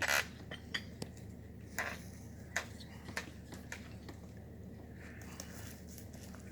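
Scattered metallic clinks and knocks of tools against metal pipe during the well pump pull, about a dozen irregular strikes, the loudest right at the start and thinning out after about four seconds, over a steady low hum.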